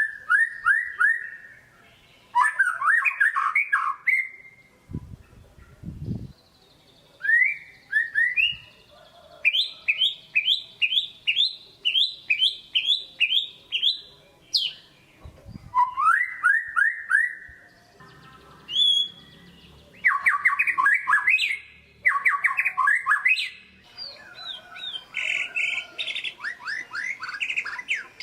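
White-rumped shama (murai batu) singing: loud phrases of rapid, repeated, rising whistled notes, separated by short pauses. Two brief low thumps come about a fifth of the way in and again near the middle.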